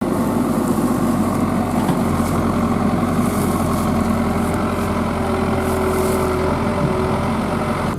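Heavy diesel engine running steadily at low speed, an even hum with no revving.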